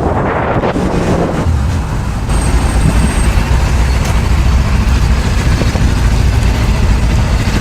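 Loud, steady noise of a moving road vehicle: a deep rumble of engine and tyres under a wide hiss.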